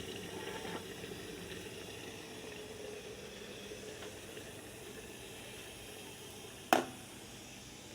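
Water in an electric kettle just off the boil, still bubbling and hissing as it settles, slowly fading. A single sharp click near the end.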